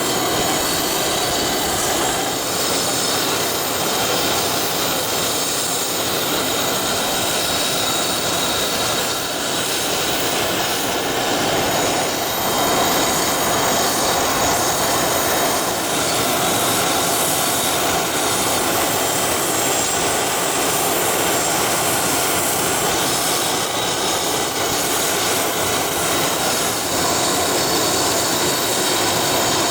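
Jet aircraft engines running steadily, a high whine held over a broad rushing noise.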